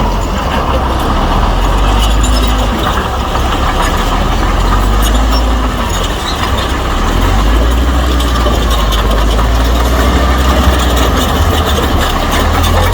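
Heavy diesel engine of a Shantui crawler bulldozer running steadily, with its steel tracks clanking.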